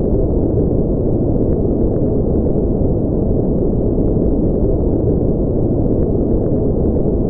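Steady, unchanging synthetic noise of the kind played for sleep. It is sold as white noise but sounds deep and muffled, with its energy in the low and middle range and nothing above about 2 kHz.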